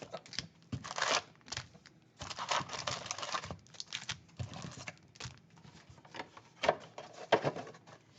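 Trading-card pack foil and cards being handled: irregular crinkling, tearing and short flicks as packs are opened and cards sorted.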